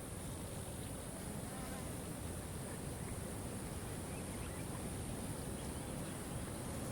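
Steady rushing of a waterfall, with a constant high-pitched buzz above it and a few faint, short chirps.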